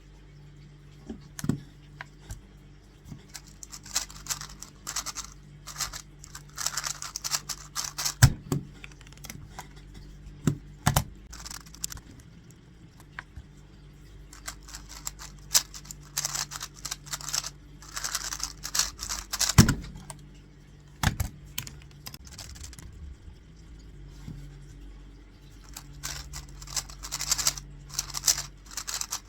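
Tornado V3 Premium 3x3 speedcube being turned at speed: rapid runs of clicking and clacking from the layers, in bursts a few seconds long, with a few louder sharp knocks between them.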